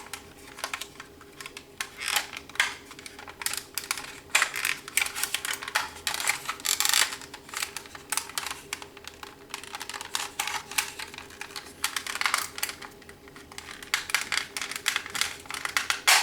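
Plastic trim-removal tools prying at a plastic part inside a Ford F-150 door, making an irregular run of small plastic clicks, creaks and scrapes.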